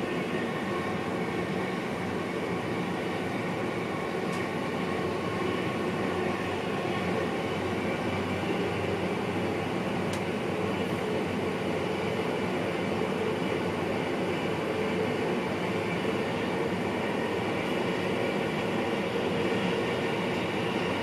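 Inside the driving cab of an NS VIRM double-deck electric train under way: the steady running noise of the wheels on the rails and the train's equipment, with faint steady tones in it, growing slightly louder.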